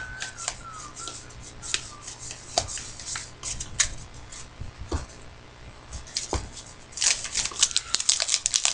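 Trading cards being handled and flipped through, with scattered sharp snaps and clicks. From about seven seconds in comes a denser stretch of crinkling, as a card pack's wrapper is worked open.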